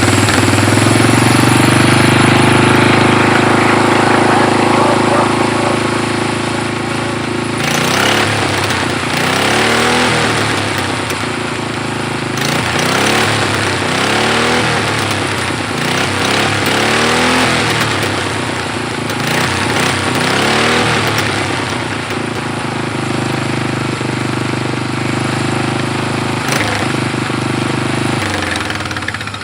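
Racing lawn tractor's engine, its governor removed, running loud and steady just after a cold start. In the middle it is revved up and down several times with the foot pedal, then settles back to steady running before dropping away near the end.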